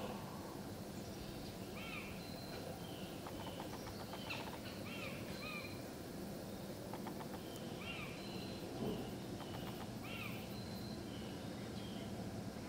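A bird calling with short, arched chirps that recur in small groups every second or two, over a steady low hum.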